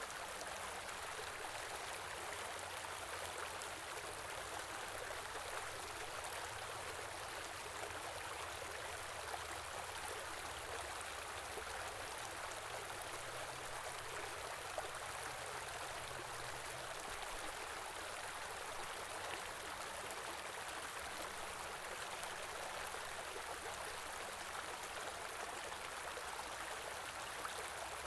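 Stream of water flowing steadily over its bed, an even rushing and babbling with no change.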